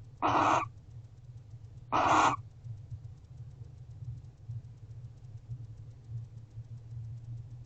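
Barn owl giving two short, harsh calls about a second and a half apart, with a steady low hum underneath.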